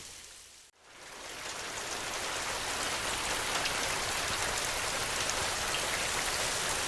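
Steady rain falling, a dense even hiss of drops. Less than a second in it fades out almost to silence for a moment, then swells back up over about a second and runs on evenly.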